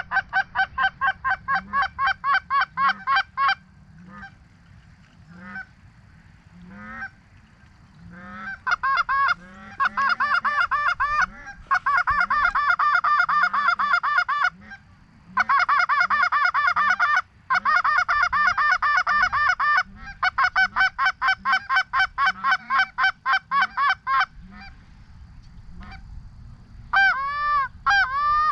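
Goose honks and clucks in long, rapid, evenly spaced strings of about five calls a second, broken by short pauses. Near the end, a different call with a lower start joins in.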